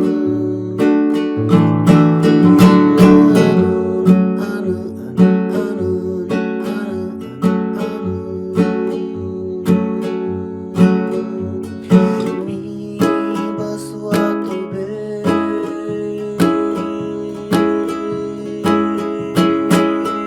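Acoustic guitar strummed in a steady rhythm, with strong accented strums about once a second over ringing chords.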